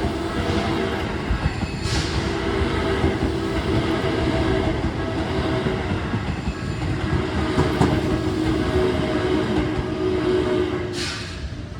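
A commuter train running through a level crossing on the Keisei Oshiage Line: a steady rumble of wheels on rail with clatter and a steady hum, dropping away near the end.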